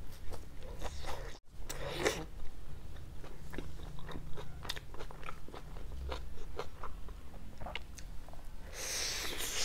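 Close-miked chewing of pizza, with many small wet mouth clicks and crunches, and a louder bite near the end.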